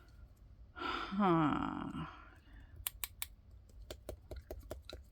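A short hummed 'hmm' with falling pitch about a second in, then a run of small, sharp clicks and taps from handling cross-stitch kitting supplies on a table.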